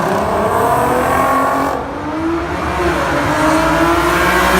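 Car engine revving hard, its pitch climbing and dropping as the throttle is worked.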